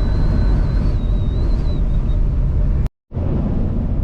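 Steady low rumble of a truck driving in high wind, with wind noise and a thin, wavering whistle that fades out about two seconds in. The sound cuts out completely for a moment near the end, then the rumble resumes.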